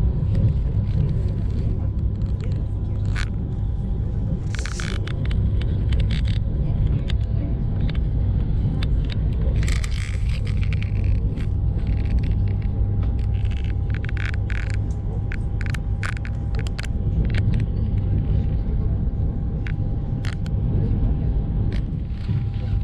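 Electric multiple-unit train (Lastochka, Siemens Desiro RUS) running, heard from inside the carriage: a steady low rumble of wheels on track with a faint steady whine, and scattered short rattles and clicks.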